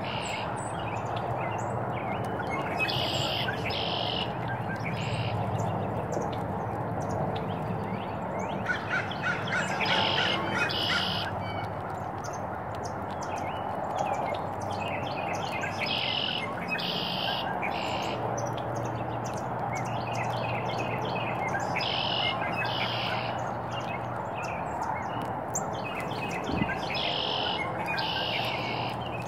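Songbirds calling: a short two-part high call repeated about every six seconds, with a quick run of chirps about ten seconds in, over a steady low background hum. A single sharp knock near the end.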